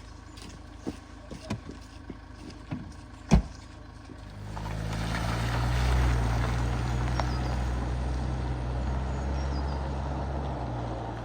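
A vehicle driving through a flooded ford, coming in about four and a half seconds in: a steady engine hum with the rush of water pushed aside by the wheels. Before it come a few sharp clicks, with one loud knock about three seconds in.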